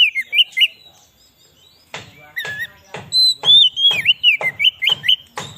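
Oriental magpie-robin (kacer) singing: phrases of sliding whistled notes mixed with short harsh notes, with a pause of about a second near the start.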